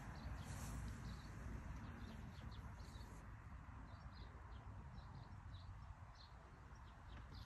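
Faint, scattered chirps of small birds, many short calls a second apart or less, over a low steady rumble.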